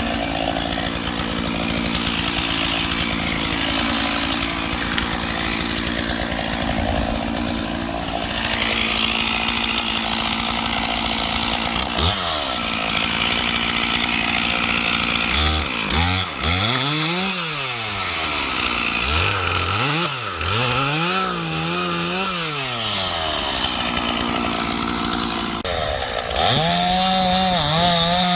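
Two-stroke Stihl 461 chainsaw cutting ash firewood under steady load, then revved up and down several times between cuts about halfway through, and running at a steady high pitch again near the end.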